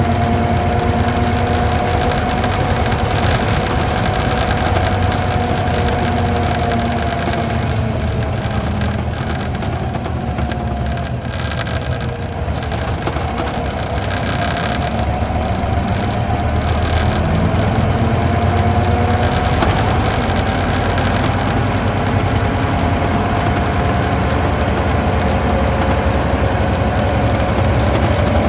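Isuzu Gala coach's V-type diesel engine running under way, heard from inside the bus. The engine note eases off and the sound drops about halfway through, then the revs build steadily again.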